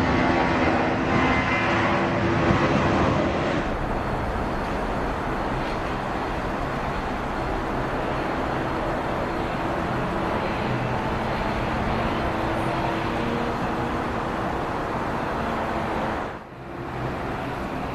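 Jet airliner engines running, a steady loud rushing noise with whining tones in the first few seconds. The sound changes abruptly about three and a half seconds in and drops out briefly near the end.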